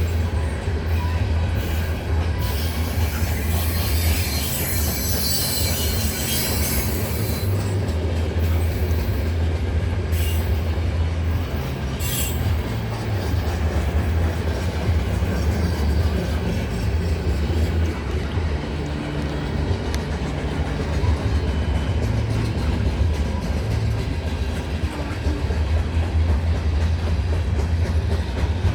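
CN freight train's cars rolling past on the rails with a steady low rumble and wheel noise. A high-pitched wheel squeal rises over it from about two to seven seconds in, and again briefly around twelve seconds.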